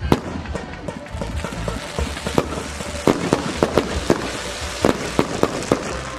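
Aerial fireworks going off in a rapid, irregular string of sharp bangs over a continuous hiss and crackle, thickest a few seconds in.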